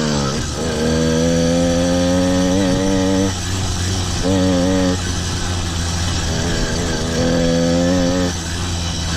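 Small 100 cc two-stroke bicycle engine kit running under way. It holds a steady note, then drops and picks up again several times as the throttle is eased off and reopened.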